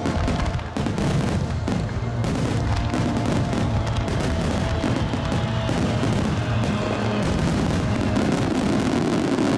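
Large aerial fireworks bursting in quick succession over music.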